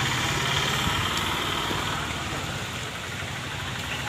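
An engine running steadily at low revs, a low hum that gets a little quieter over the second half.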